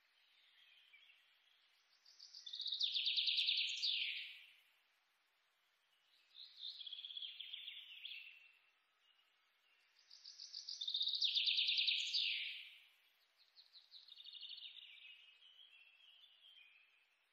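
Birdsong: a songbird repeating high trilled phrases about every four seconds. A louder phrase ending in a quick falling sweep alternates with a softer, lower trill.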